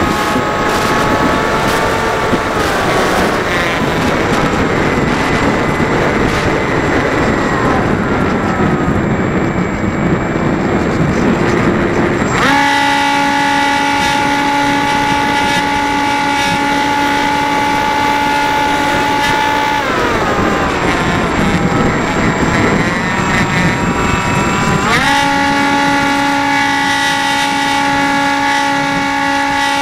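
Dynam Hawk Sky RC plane's electric motor and propeller whining, the pitch dropping as the throttle is eased off and jumping back up when it is opened again, twice over. Wind buffets the microphone throughout.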